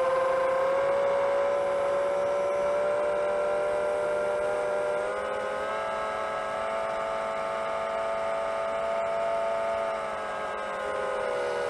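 Motors and propellers of a 7-inch long-range FPV quadcopter whining steadily in flight. The pitch steps up a little about five seconds in and drops back near the end as the throttle changes.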